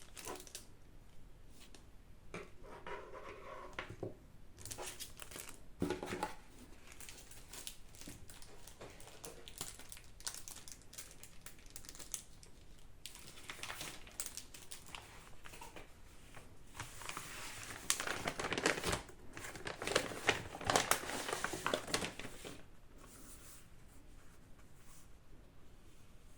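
Packaging crinkling and rustling as it is handled and unwrapped, in irregular bursts, busiest about two-thirds of the way through.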